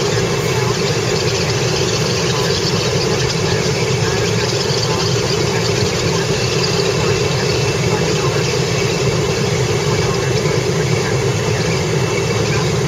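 Steady road and engine noise inside a moving car, an even drone with no changes.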